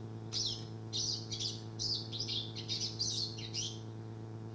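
Pine siskin song: a fast string of short twittering phrases with quick rising and falling notes, stopping shortly before the end. A steady low electrical hum runs underneath.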